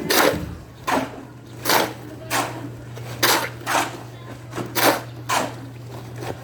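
About nine short rasping or scraping strokes at an uneven pace, roughly one every half to one second, over a steady low hum that starts just after the opening.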